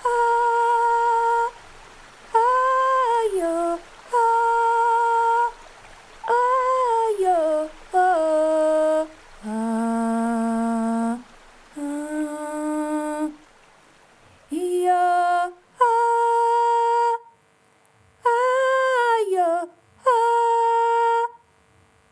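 A woman humming a slow, wordless lullaby-like tune in held notes of a second or two, some sliding down in pitch, with short pauses between them.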